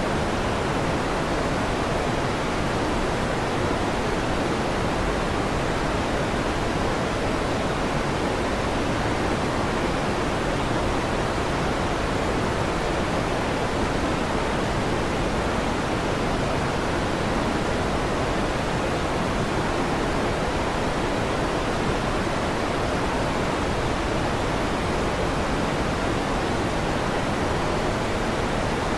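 Electric fan running steadily: an even, unbroken rushing noise, fuller in the low and middle range than in the treble.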